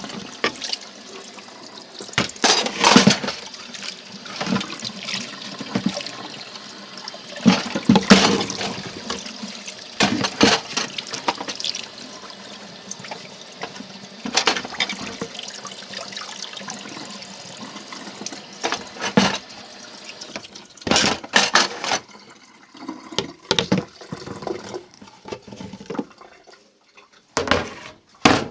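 Water running, as the ice is washed off cupboard doors, with repeated knocks and clatters of the doors being handled. The running water stops about three-quarters of the way through, leaving a few scattered knocks.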